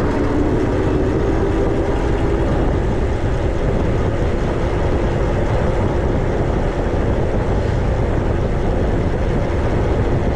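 Steady wind rush and low rumble on the microphone of a moving e-bike, with a faint hum that fades out in the first few seconds.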